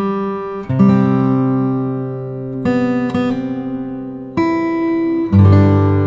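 Background music: acoustic guitar strumming slow chords, a new chord about every second and a half, each left to ring out.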